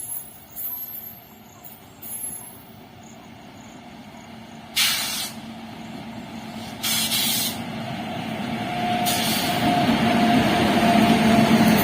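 A train approaching on the track, its rumble and a steady tone rising over the last few seconds, after two short hissing bursts about five and seven seconds in.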